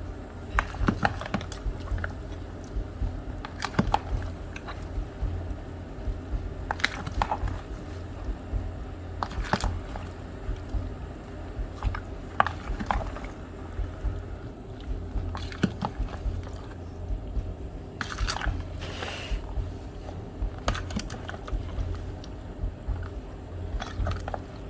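Raw seasoned oxtail being mixed with browning in a bowl: irregular wet squelches and clicks, with a steady low hum underneath.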